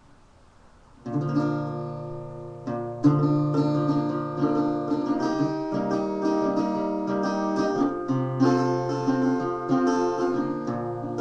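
Acoustic guitar strumming and picking the chords of an intro. It starts suddenly about a second in, with a strong stroke near three seconds.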